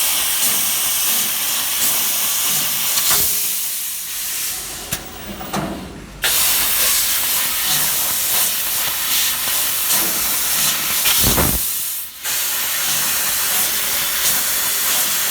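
CNC tube laser cutter cutting metal tube: a loud, steady hiss of the cutting head's gas jet. It drops away for about two seconds roughly four seconds in, and again briefly about twelve seconds in, between cuts.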